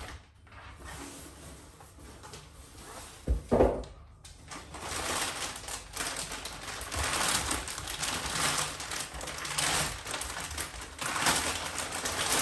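Unboxing handling noises: two heavy thumps about three and a half seconds in, then packaging rustling on and off as the grinder is unwrapped.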